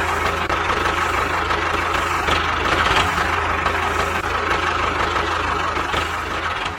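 Steady engine-like running sound with a faint regular pulse about once a second, fading out near the end.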